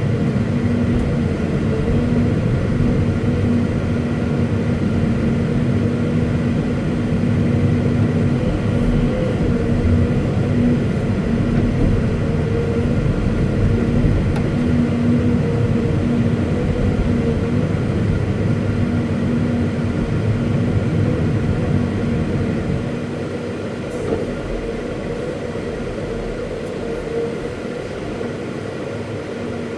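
Caterpillar 329E excavator's diesel engine running steadily with a low rumble and a constant hum; it drops somewhat quieter about 23 seconds in.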